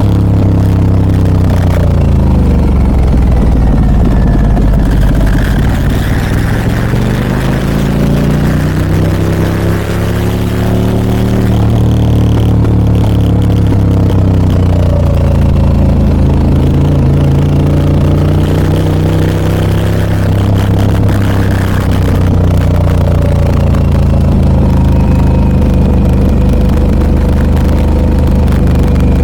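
Harley-Davidson Pan America 1250 Special's Revolution Max V-twin running through a Scorpion aftermarket muffler while riding, its note falling and rising again several times as engine speed drops off and picks back up.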